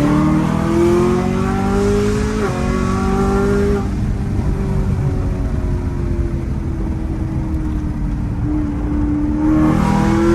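Supercharged V8 of a modified 800 hp Camaro ZL1 1LE under hard acceleration, its pitch rising for about four seconds with a brief break partway. It then eases off and falls in pitch, and climbs again near the end.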